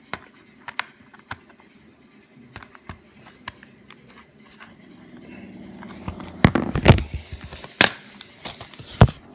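A plastic DVD case being handled and opened: scattered clicks and knocks, with the loudest cluster about two-thirds of the way through and one more sharp snap near the end.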